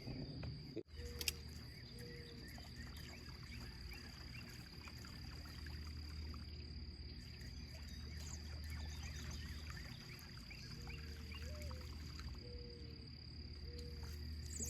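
Faint outdoor ambience on the water: a steady high insect buzz, a low hum that fades and returns, and a few short chirping calls.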